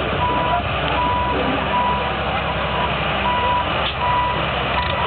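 A vehicle's reversing alarm beeping at an even pace, a bit faster than once a second, over the low steady sound of an engine running.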